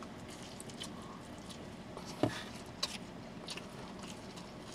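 Faint sounds of people chewing and biting into slices of cheese pizza, with a few soft mouth clicks. The sharpest comes about two seconds in.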